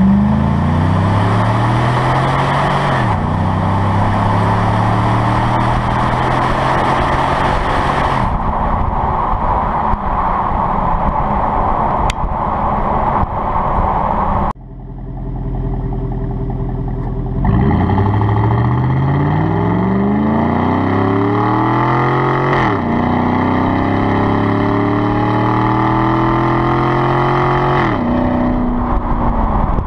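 2009 Chevrolet Silverado's 5.3L V8 exhaust note under acceleration: the engine pitch climbs and drops back at each upshift, several times. About halfway through the sound cuts off abruptly and a second acceleration run begins, again climbing through two shifts.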